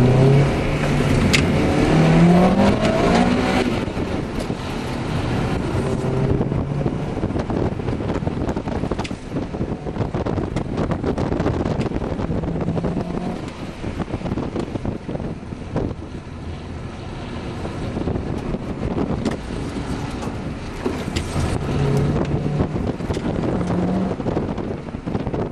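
Honda Prelude's four-cylinder engine heard from inside the cabin, revving up hard through the gears as the car accelerates. After a few seconds the engine is mostly buried under a steady rush of road and wind noise, and it rises again near the end.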